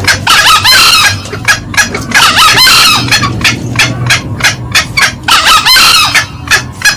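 Green junglefowl calling: a steady run of sharp clucks, about three a second, broken three times by a short, shrill, busier call. It is the cackling of male and female birds used as a lure call.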